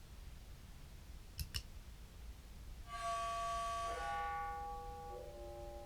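Contrabass clarinet played through an octave pedal and reverb with a low-pass filter: three sustained, pitch-shifted notes that change about a second apart, after two quick clicks.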